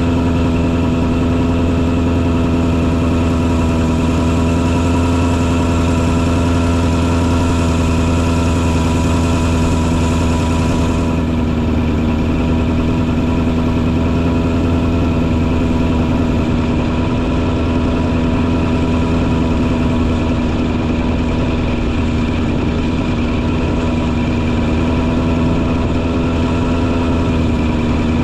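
Engine running steadily at one constant speed on a mosquito-fogging truck, with a high hiss over it that cuts off suddenly about eleven seconds in.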